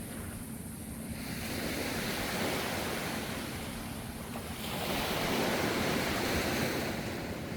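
Ocean waves washing ashore in a steady surf, swelling twice, with the larger wave about five seconds in, over a continuous low rumble.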